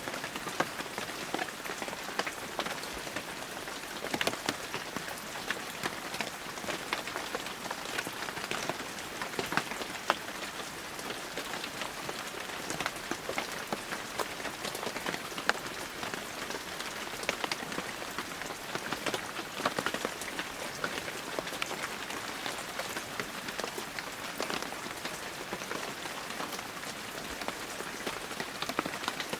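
Heavy rain falling steadily, a dense hiss of rain with many single drops ticking and pattering on surfaces.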